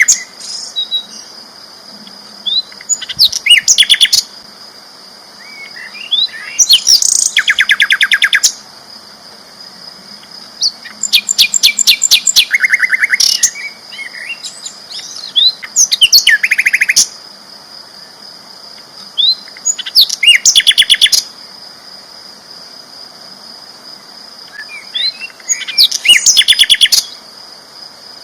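Sikatan londo flycatcher singing loud, fast bursts of rapidly repeated notes, six bouts of one to two seconds each, with soft scattered chirps between them. A faint steady high whine runs underneath.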